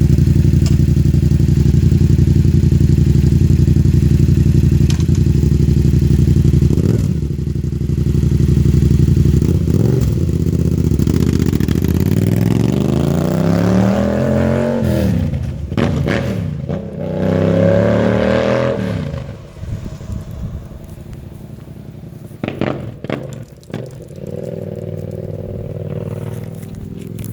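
Yamaha FZ-07's 689 cc parallel-twin engine, fitted with an aftermarket Black Widow exhaust, idling steadily. It then pulls away and accelerates hard, its pitch rising through two gears with a shift in between. After that the sound falls away as the bike moves off.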